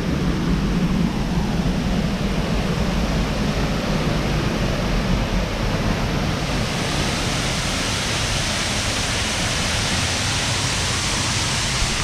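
Waterfall rushing steadily, a loud even wash of falling water. The higher hiss grows a little stronger about halfway through.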